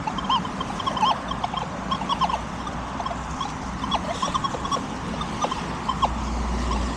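Metal detector giving many short, irregular squeaky chirps as it sweeps over junk, the kind of response the detectorist takes for tin foil. A steady low rumble of road traffic runs underneath.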